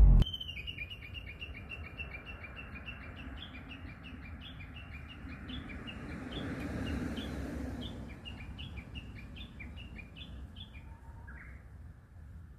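A songbird singing a long run of short, evenly repeated high chirps, about three a second, ending with a lower falling note near the end, over a low background rumble.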